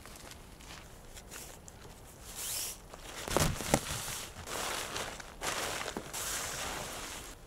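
Footsteps outdoors, a rustling step roughly every second, with two sharper knocks about halfway through.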